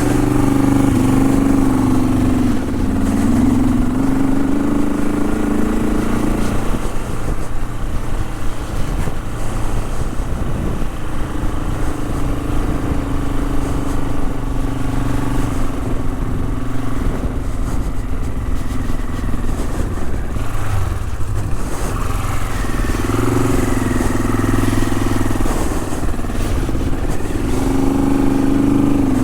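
Honda CL450 parallel-twin engine running under way, its revs falling and rising with the throttle: a dip about two seconds in, a steadier stretch in the middle, and a rise again near the end, over a steady low rumble.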